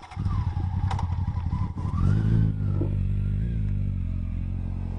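Motorcycle engine running, picking up revs about two seconds in and then holding steady.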